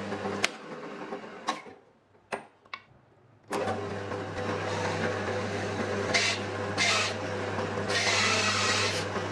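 A small electric power tool's motor running with a steady hum, switched off about half a second in; a few light clicks and knocks in the pause. The motor starts again about three and a half seconds in and runs on, with three bursts of harsh hissing noise as it bites into the wood.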